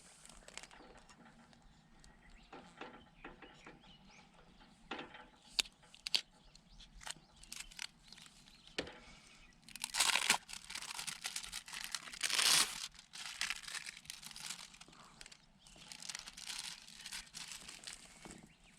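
Crinkling and rustling of something like a plastic bag or wrapper being handled, with scattered small clicks. Two louder, longer crinkles come about halfway through.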